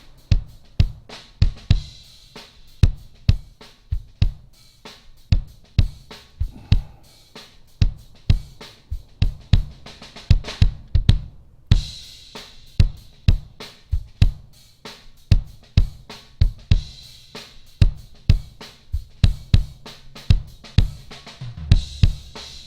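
Recorded drum kit playing a steady beat: kick and snare hits with hi-hat and cymbal, the drum channels of a multitrack song with a compressor applied. The cymbals drop out briefly about halfway through.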